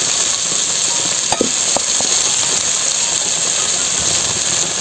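Okra sizzling as it fries in oil in an aluminium pan, a steady hiss. A short click about a second and a half in.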